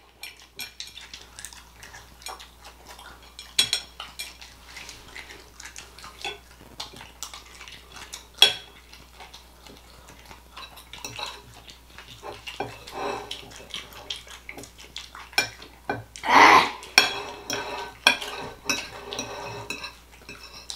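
Cutlery clinking and scraping against a plate, many small clicks through the whole stretch, with one sharper clink about eight seconds in and a louder, longer noise about sixteen seconds in.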